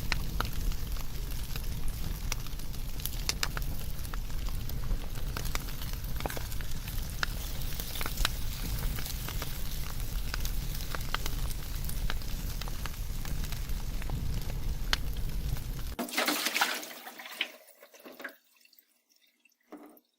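Wood fire burning, crackling with scattered sharp pops over a steady low rumble. About three-quarters of the way through the rumble cuts off, a short hiss follows, and the sound fades away to near silence.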